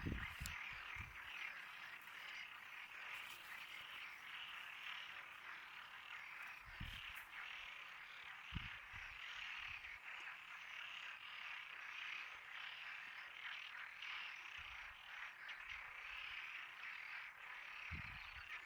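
A chorus of many frogs calling at once, overlapping into a dense, steady sound, with a few brief low bumps.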